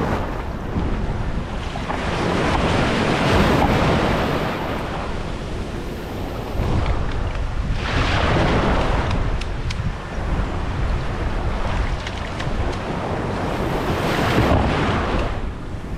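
Sea waves breaking and washing up the shore, surging every five or six seconds, with wind buffeting the microphone.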